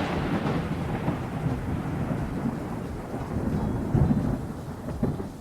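Thunderstorm sound effect: a long roll of thunder dying away slowly over steady rain, with a brief swell about four seconds in.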